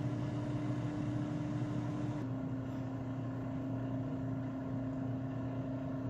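Air fryer running just after being switched on, its fan motor giving a steady hum with one clear tone that drops slightly in pitch about two seconds in.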